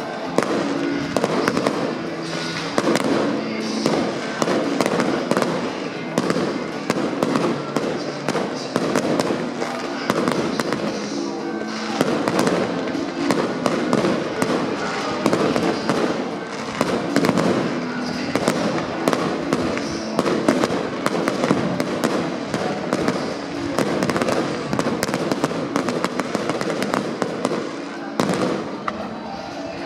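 Fireworks display: a dense, continuous run of bangs and crackles from bursting shells and rapid-firing cakes, over music.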